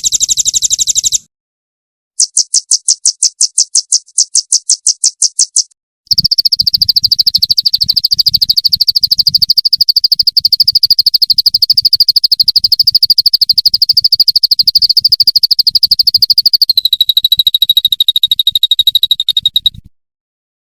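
Recorded bird song for training cage songbirds: high, rapid trills in separate bursts. First a short trill that stops about a second in, then a pulsed trill of about six notes a second, then a long, very fast, steady high trill of about fourteen seconds that drops slightly in pitch near the end and cuts off suddenly.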